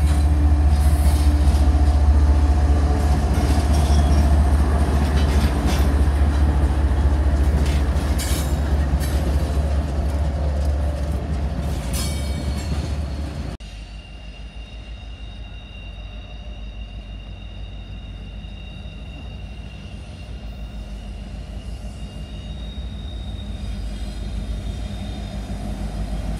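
A BNSF diesel freight train passes close by with a heavy, steady low rumble and repeated wheel clicks. About halfway through, the sound cuts to a quieter, distant rumble from an approaching Norfolk Southern diesel freight, with faint steady high tones, growing louder near the end.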